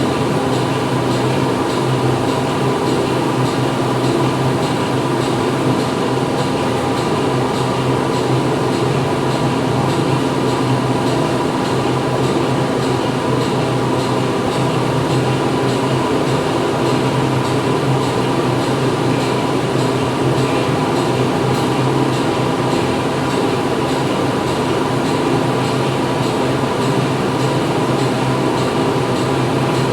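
Factory machinery running steadily: a constant mechanical hum with several steady tones over a dense noise, unchanging throughout.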